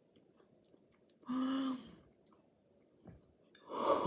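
A person chewing a bite of a flaky croissant-and-cookie-dough pastry, with one short hum about a second in and louder voice sounds starting just before the end.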